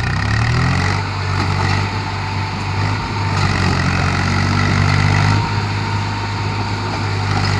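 Tractor's diesel engine revving up from idle and held at high revs, dipping briefly a few times.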